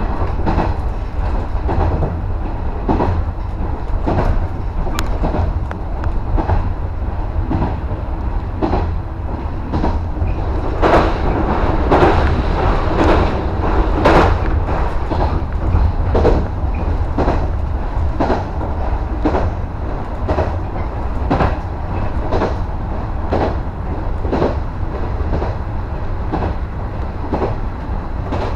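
JR West 115 series electric train running along the track, heard from inside the leading car: a steady low rumble with the wheels clicking over rail joints about once a second, the clicks louder for a few seconds a little before the middle.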